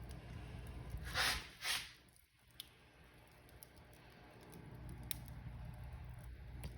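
Wood fire crackling: a low steady rumble with scattered sharp pops and two louder hissing bursts a little over a second in. The sound drops away just after and builds back up.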